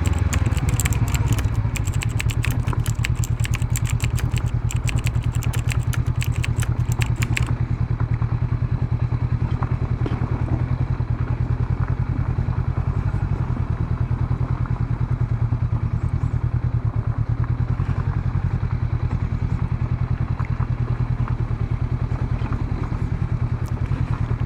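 Honda CB500X's parallel-twin engine running steadily at low road speed, a low even pulse. A rapid run of sharp clicks and crackles sits over it for the first seven seconds or so, then stops.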